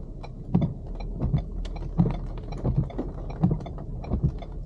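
Car turn-signal flasher ticking steadily inside the cabin, about one and a half tick-tock pairs a second, over the low hum of the car moving on wet road.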